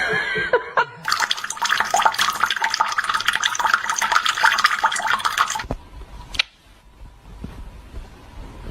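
Water splashing, a dense crackle for about five seconds that stops abruptly, followed by a single knock.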